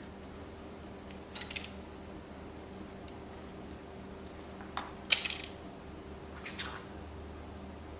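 A few short, scratchy clicks and rustles from parrots perched on a person's shoulders, one conure preening its feathers, over a steady low room hum; the loudest comes about five seconds in.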